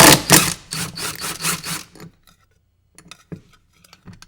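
Drill driving a 10 mm socket on a very tight nut, a loud rasping grind that pulses for about two seconds as the nut is worked loose. A few light clicks follow.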